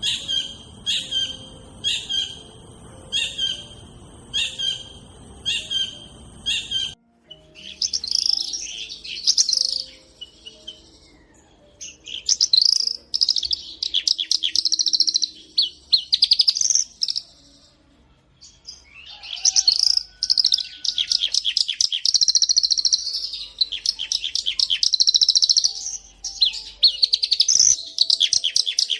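A bird repeats a short, bright call about every half second for the first seven seconds. Then, after a sudden change of background, a bird sings long runs of fast, high twittering song separated by short pauses.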